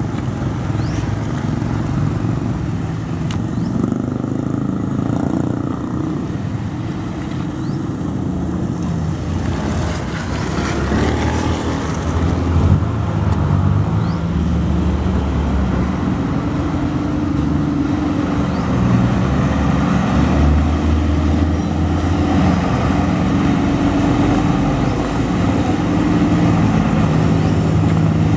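Truck engine running on a rough road, its pitch shifting up and down as it works, with a brief knock about halfway through.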